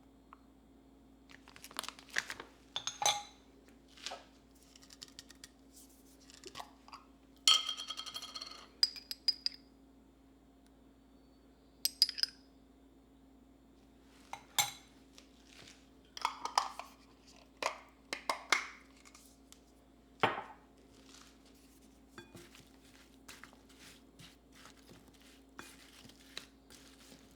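Dishes, glassware and utensils being handled and set down: scattered clinks and knocks, with one longer ringing clink about eight seconds in. A faint steady hum runs underneath.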